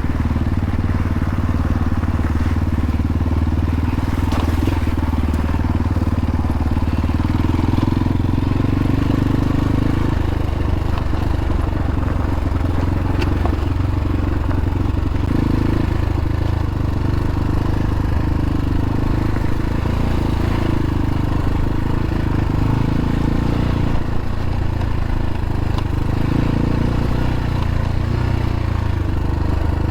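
X-Pro Templar X dirt bike's engine running steadily at low revs as the bike is ridden along a canyon trail.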